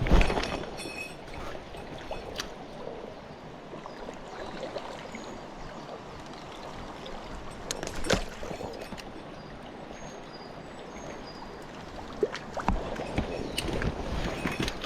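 Small stream running steadily, with a few sharp knocks and clicks: a loud one at the start, one about eight seconds in, and several near the end.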